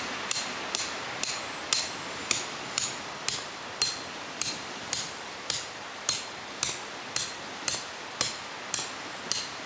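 A tent peg being hammered into rocky ground: a steady run of sharp metallic strikes, about two a second.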